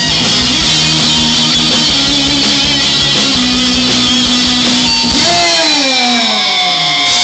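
Live rock band playing loudly, electric guitar to the fore with long held notes. About five seconds in, a note slides steadily down in pitch.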